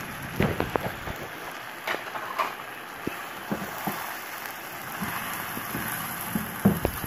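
Chicken pieces sizzling in hot oil in a frying pan while a spatula stirs them, with irregular light knocks and scrapes of the spatula against the pan.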